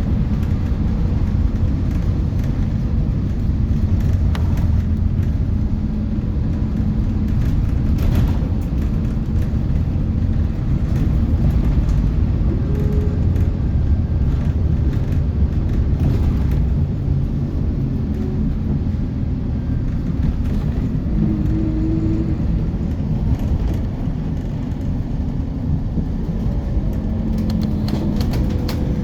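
Scania K230UB city bus heard from inside the cabin: the five-cylinder diesel engine runs with a steady low rumble, its hum tones shifting now and then as the bus drives. A few brief clicks and rattles come through, a cluster of them near the end.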